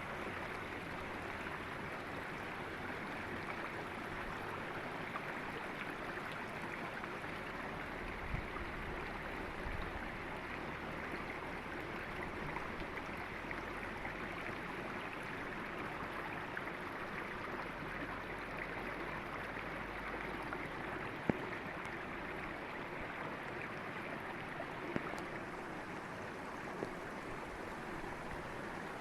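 River water flowing over rocks in a steady rush, with a few faint splashes and clicks.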